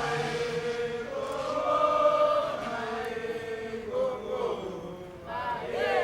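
Voices chanting together in long held notes, phrase after phrase.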